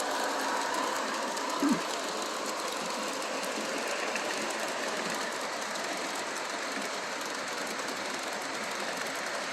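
Model GG1 locomotive and its train running steadily around the layout track, a continuous even rolling noise of motor and wheels, with the train now running without trouble.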